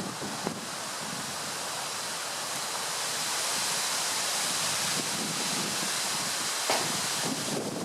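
Strong wind gusting through trees, a steady rushing of leaves and branches that swells louder about halfway through.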